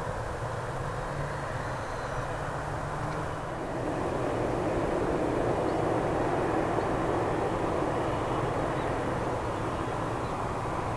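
Jet engines of a Boeing 767-300 airliner running, a steady rushing noise that grows louder about four seconds in and then holds.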